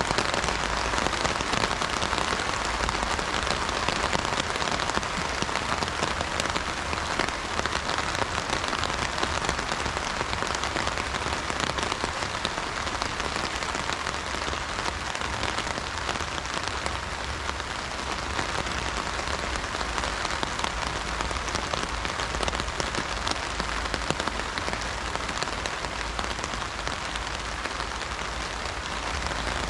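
Heavy rain drumming steadily on an umbrella canopy, a dense, even patter of drops.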